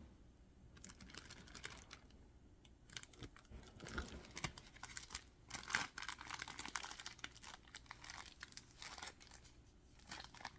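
Plastic zip-top bag crinkling and rustling in the hands as it is filled with cream and shaped into a piping cone, in a dense run of small crackles.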